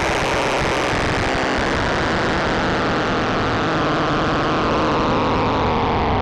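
K-ACCUMULATOR synthesizer oscillator module in its XPM mode, playing a dense, buzzing drone with no gaps. Its tone slowly darkens, with a bright band sinking in pitch over the few seconds.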